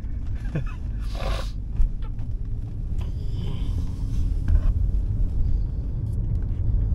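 Low, steady rumble of a car on the move, heard from inside the cabin, with a short hiss about a second in and a fainter one a couple of seconds later.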